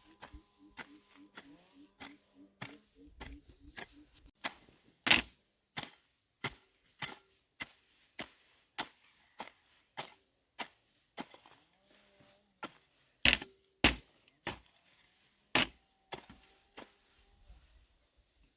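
A tool striking wood again and again, about one to two sharp blows a second. A few blows are much louder than the rest.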